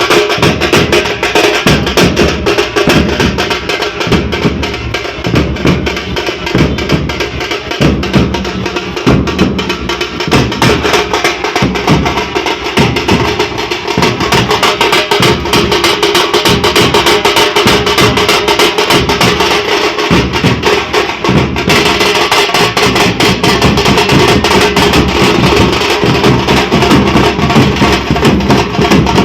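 Drum ensemble playing loud, fast, continuous rhythms, dense with rapid strokes; the texture shifts about two-thirds of the way through.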